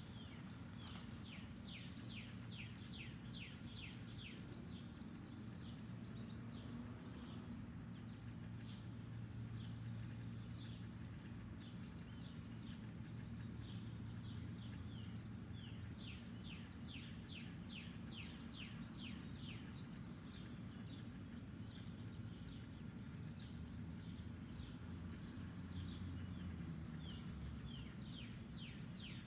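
A songbird singing: repeated runs of quick, descending chirps every few seconds, over a steady low hum of outdoor background noise.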